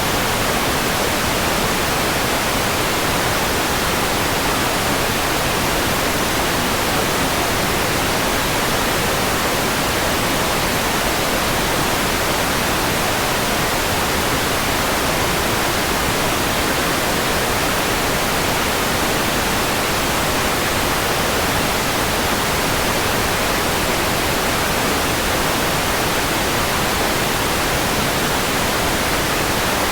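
Steady synthetic white noise: an even hiss across all pitches that never changes.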